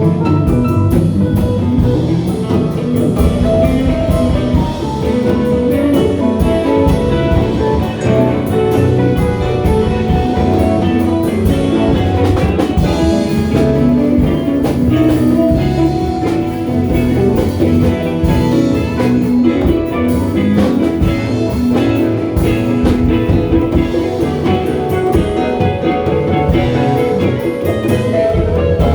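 Live band music: guitar over a drum kit, playing without a break.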